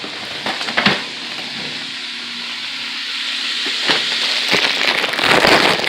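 Ground beef sizzling as it fries in a pot, with a few sharp clicks; the sizzle grows louder in the second half.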